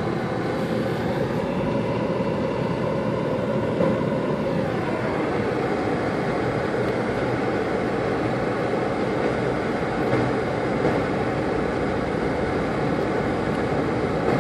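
Steady road and engine noise inside a car driving on a snow-covered road, with a faint tone that fades out about five seconds in.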